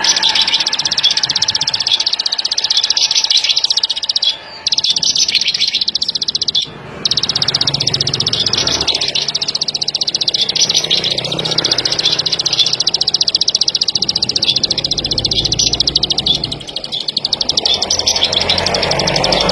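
Ciblek sawah (plain prinia) singing: a fast, even, high-pitched buzzing trill of rapidly repeated notes, broken by two short pauses early on.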